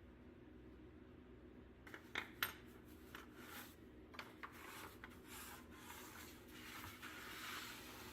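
Faint steady hum, then a few sharp clicks about two seconds in. They are followed by repeated rubbing or scraping strokes that grow a little louder near the end.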